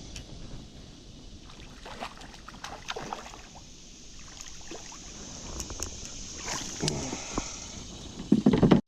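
Kayak sounds: scattered light knocks and water splashing against a plastic kayak, with a louder cluster of thumps near the end. A steady high insect buzz runs underneath.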